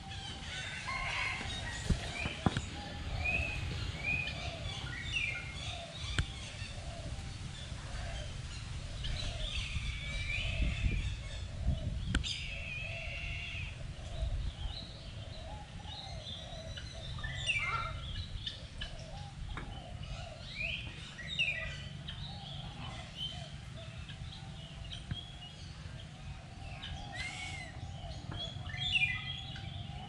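Several birds calling: short chirps and rising-and-falling whistled notes scattered throughout, with lower warbling calls beneath them, over a steady low rumble.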